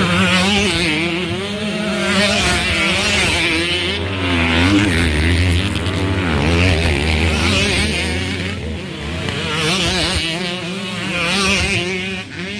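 Motocross bike engines racing, several at once, revving up and down so that their pitch keeps rising and falling, over a steady low hum.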